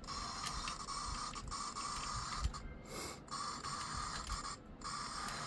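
Model train locomotive running on the layout track: a steady electric motor whine with small clicks from the wheels and track. The sound cuts out briefly twice.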